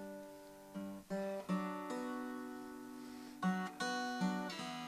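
Acoustic guitar playing a slow, gentle passage: a few plucked chords, each left to ring out and fade before the next.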